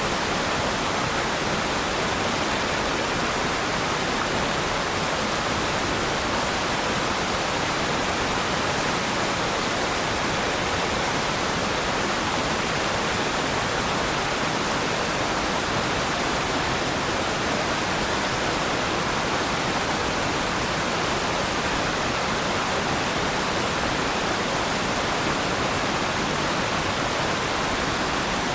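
Waterfall: steady, even rush of falling water with no changes.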